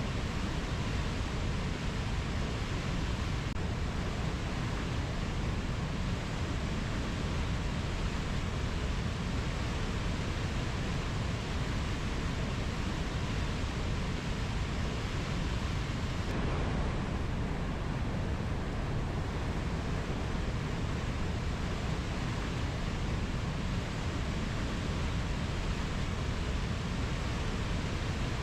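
Steady, even rushing noise of a rainforest ambience, with no distinct bird or insect calls standing out.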